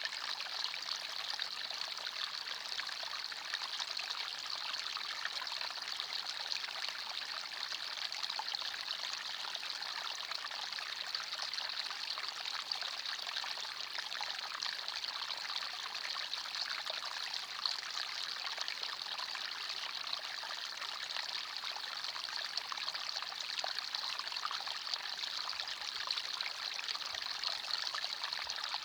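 Small forest stream flowing and trickling over stones, a steady, even babble of water.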